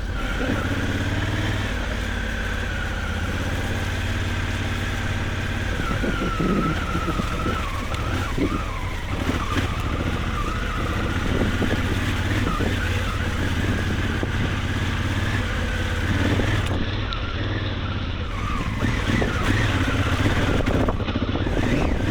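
Honda Africa Twin's parallel-twin engine running under load off-road, its pitch rising and falling with the throttle, over steady rumble and wind noise.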